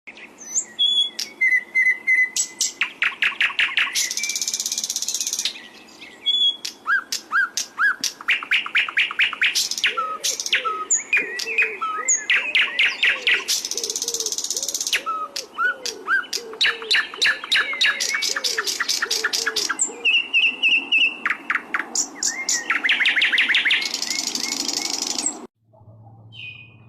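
Sikatan londo flycatcher in full song, singing a long, varied song of rapid trills and fast runs of sharp high notes with short whistled notes between phrases. The song cuts off abruptly near the end.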